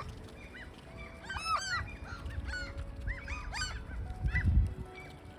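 Great black-backed gulls calling: several short, arched cries overlap in bunches, one of them about a second and a half in and another about three seconds in. Wind buffets the microphone with a low rumble.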